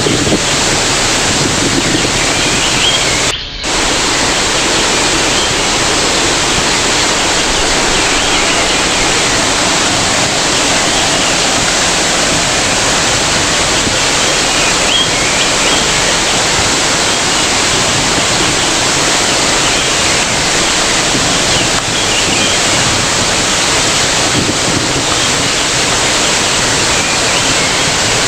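Waterfall: water falling and splashing in a steady, loud rush, with one brief drop in level about three seconds in.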